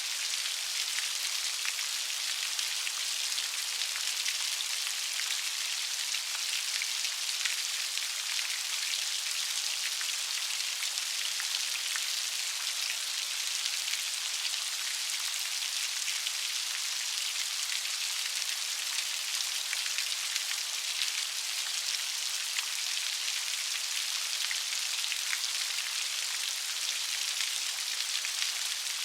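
Steady light rain: a continuous high, even patter of small drops with many faint individual ticks.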